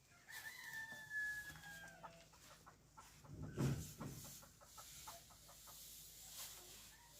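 A rooster crowing once: a long held call that falls away at the end. About three and a half seconds in comes a louder low thud, followed by a run of small clicks and knocks.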